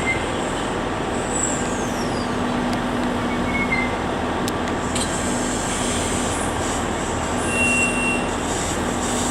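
Kintetsu train rolling through the station, with a steady rumble of running noise. Brief high squeals come about a second and a half in and again near the end, one of them falling in pitch.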